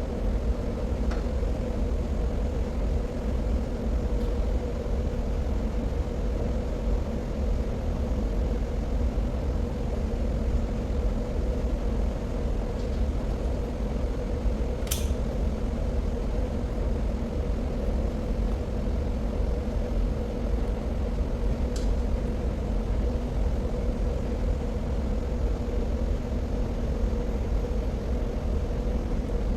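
Steady low rumble and hum of heavy plant machinery in an underground hydroelectric station, unchanging throughout, with a few short clicks; the sharpest comes about halfway.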